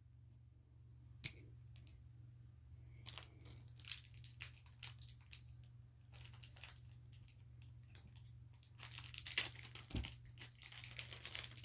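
Small plastic packaging crinkling and rustling in short bursts as it is handled and opened, with a single click early and a soft thump about ten seconds in, over a faint steady low hum.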